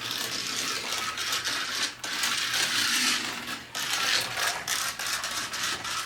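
Slot car running on a plastic track: its small electric motor and gears buzzing with a fine rattle, dipping briefly twice.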